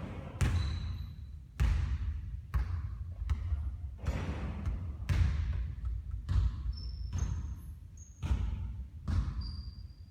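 Basketball bouncing on a court floor, with thuds roughly once a second and a few short high squeaks among them.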